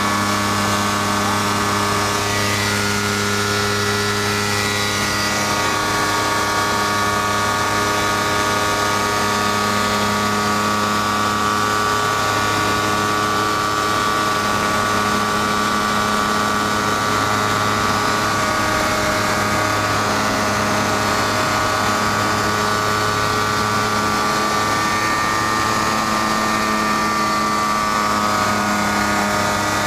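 Kitfox light aircraft's piston engine and propeller running steadily, heard from inside the cockpit, with its pitch shifting slightly a few seconds in.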